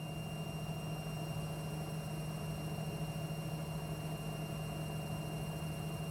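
Front-loading washing machine running with a steady low hum and a faint, steady high whine.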